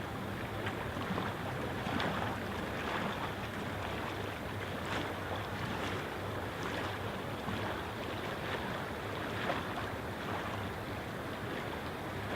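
Steady rush of flowing water, with small splashes now and then.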